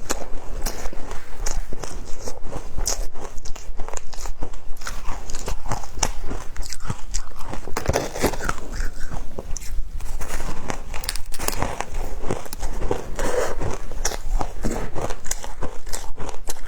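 Frozen matcha ice being bitten and chewed: a loud, continuous run of sharp crunches and cracks with no real pause.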